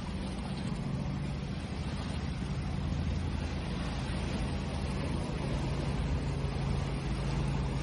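Steady wash of ocean waves with a constant low hum underneath.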